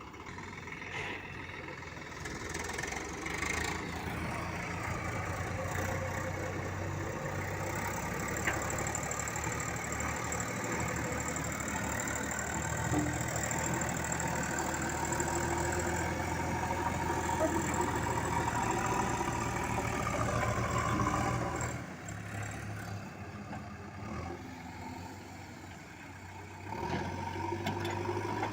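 Diesel engine of heavy machinery running steadily. It runs louder for most of the stretch, drops back to a quieter idle about 22 seconds in, then picks up again near the end.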